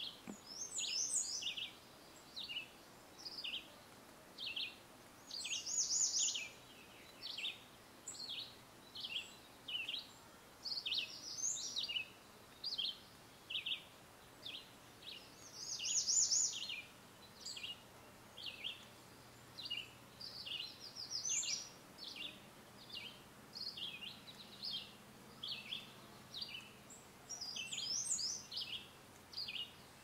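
Songbirds chirping: short high calls about once or twice a second, with a longer, louder song phrase about every five seconds.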